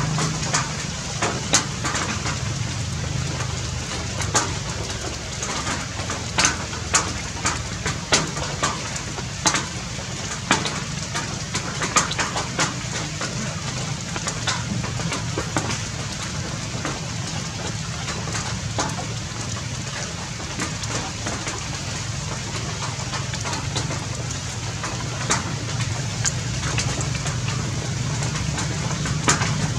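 Rain falling, a steady hiss broken by many irregular sharp drop hits, over a steady low hum.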